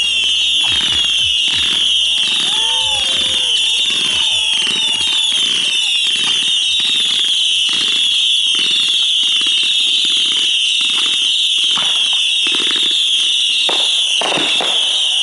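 Fireworks show: aerial shells bursting one after another, about two a second, over a constant loud high-pitched hiss.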